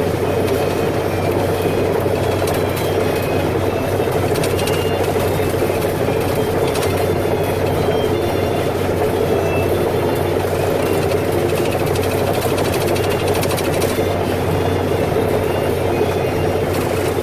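Heavy machinery engine running steadily under a continuous drone, with no change in pitch.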